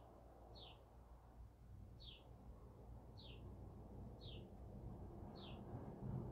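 Faint bird chirping: a short, falling chirp repeated about once a second, over low background noise.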